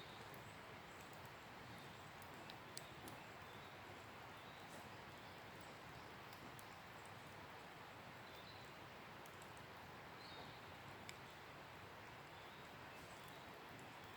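Wood campfire burning quietly, with a faint steady hiss and occasional sharp crackles and pops. A few faint high chirps come in and out.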